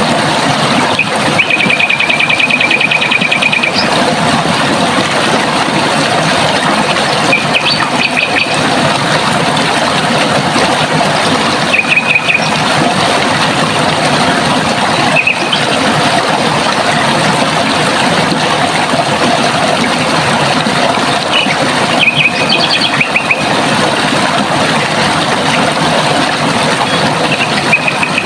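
Steady rush of running water, with a bird's short high trilling calls breaking in every few seconds; the longest trill comes about two seconds in.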